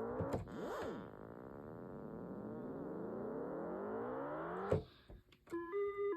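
Yamaha DX7 FM synthesizer playing a voice from the VRC-105 cartridge: a rich tone that glides slowly upward in pitch, starting over about a second in and rising again until it cuts off sharply near the end. After a brief gap a different voice begins, short notes stepping back and forth between pitches.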